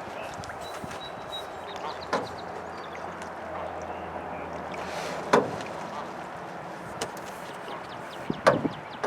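Canoe paddle knocking against an aluminium canoe's hull three times, about three seconds apart, over steady water and wind noise.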